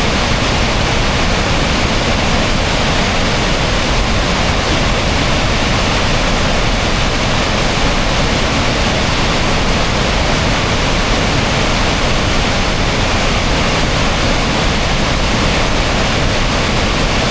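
Kakabeka Falls, a large waterfall on the Kaministiquia River, giving a loud, unbroken rush of falling water.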